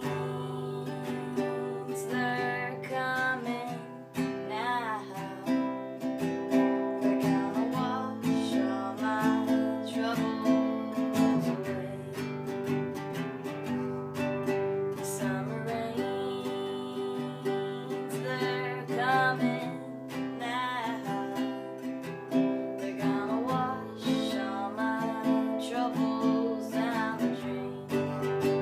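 Acoustic guitar music, strummed and picked chords, with a wavering melody line rising above it now and then.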